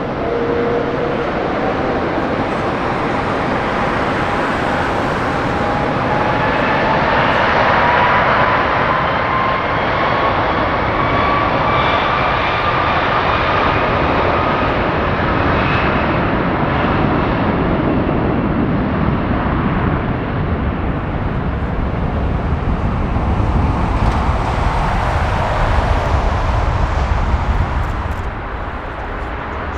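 Jet airliner engines running loud as the plane passes. A whine rises slowly in pitch over the first dozen seconds, and the roar swells again near the end.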